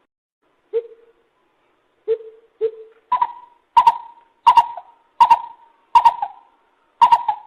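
Lesser coucal calling: three lower notes spaced apart, then from about three seconds in a steady run of six louder, higher-pitched notes, about one every 0.7 seconds.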